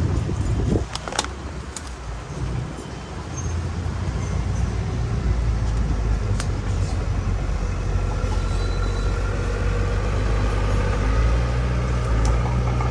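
Heavy diesel earthmoving machinery running with a deep, steady engine rumble, growing louder about three seconds in. There are a couple of sharp clanks about a second in.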